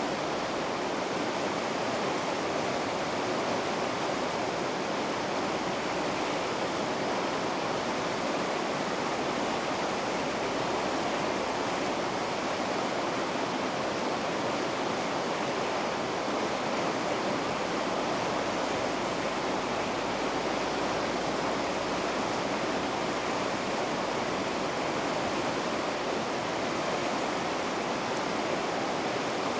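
Rushing water of river rapids, a steady, unbroken roar of churning water.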